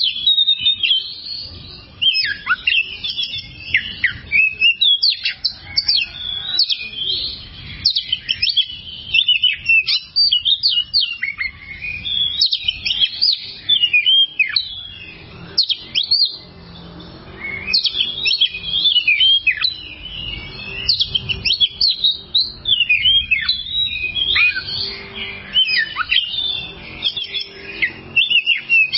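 Oriental magpie-robin (kacer) singing a fast, varied run of sharp chirps, trills and gliding whistles, with a short pause about halfway through.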